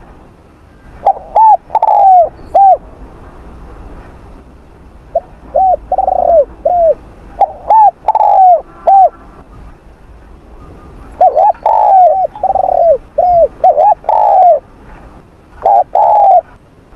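Spotted dove cooing close up: phrases of short arched coos, each note rising and falling, in about five bouts separated by pauses.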